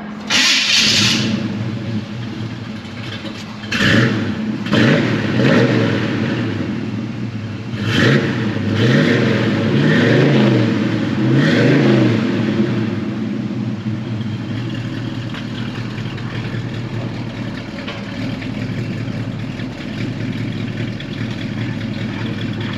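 Camaro engine with an aggressive cam running through a freshly fitted X-pipe exhaust with new tips: it catches at the start, is blipped about five times over the first dozen seconds, then settles into a steady idle. The exhaust has a raspy sound.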